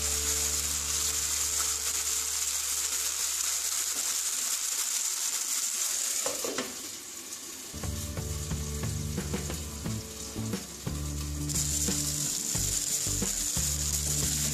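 Soya chunks sizzling in shallow oil in a nonstick frying pan. About six seconds in there is a clink as a glass lid goes on and the sizzle drops to a muffled hiss; it comes back full near the end once the lid is lifted. A steady low hum runs underneath.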